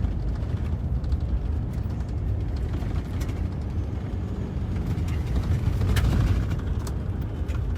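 Inside a moving car: steady low road and engine rumble, with scattered sharp ticks against the body, and a swell in loudness about six seconds in.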